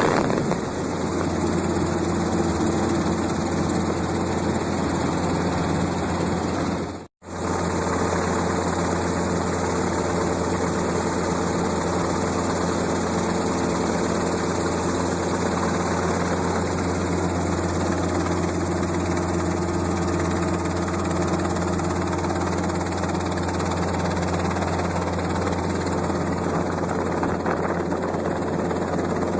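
Helicopter engine and rotor running in flight, heard as a steady drone with a low hum from inside the cabin. The sound cuts out completely for a moment about seven seconds in.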